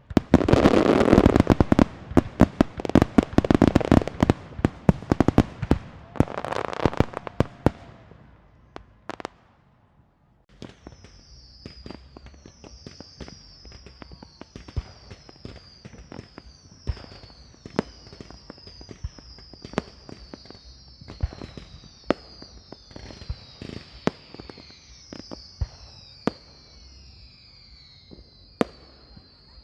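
Fireworks and firecrackers: a dense, loud barrage of rapid bangs and crackles for about eight seconds. After a brief lull come scattered fainter pops, with a repeated short, high, falling whistle over them.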